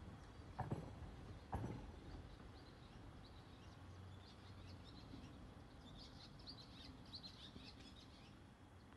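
Faint outdoor ambience with small birds chirping in quick high runs, busiest about six to seven seconds in. Two soft thumps sound about half a second and a second and a half in.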